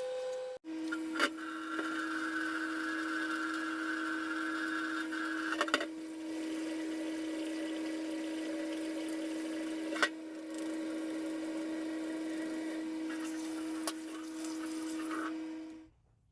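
A small power tool's motor running at a steady speed, with a few sharp clicks, and cutting off near the end.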